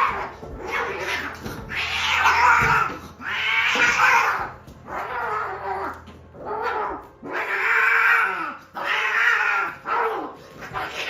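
A cat yowling, a string of long drawn-out calls about a second apart, each rising and falling in pitch.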